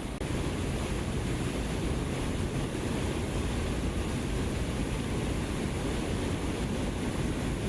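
Steady rushing noise with a heavy, uneven low rumble, as of wind buffeting the microphone beside moving water. It rises slightly just after the start, then holds.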